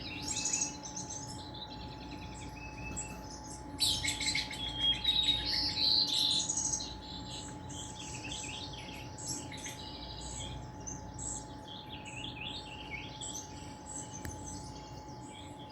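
Birds chirping and singing from a bird video playing on a television, many overlapping calls and trills, loudest and busiest from about four to seven seconds in. A faint steady tone runs underneath.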